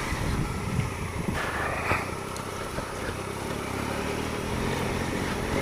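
Triumph Explorer 1215cc inline-triple motorcycle engine running steadily at low revs.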